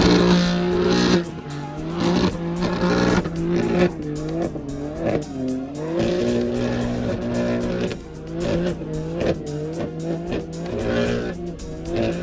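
Car engine sound mixed with background music with a regular beat.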